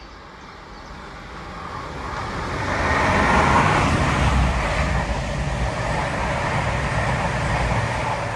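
Train approaching and running past on the line. The noise and low rumble build over about three seconds, then stay loud and steady.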